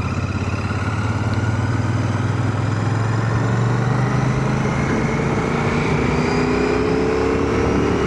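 Royal Enfield Shotgun 650's parallel-twin engine running on the move, heard from inside a full-face helmet. From about three seconds in, the engine note climbs steadily as the bike accelerates.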